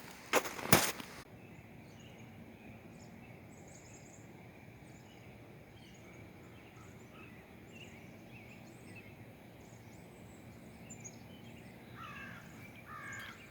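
Wild birds calling and chirping: many short, high chirps scattered throughout over a steady faint outdoor background, with a few louder calls near the end. A few loud knocks in the first second.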